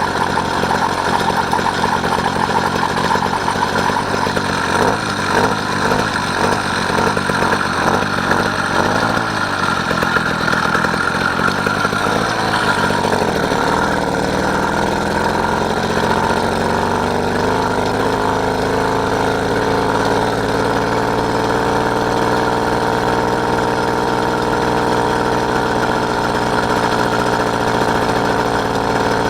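Small engine of a motorised bike running under way. Its pitch drops briefly about halfway through, then climbs and holds steady at a higher speed.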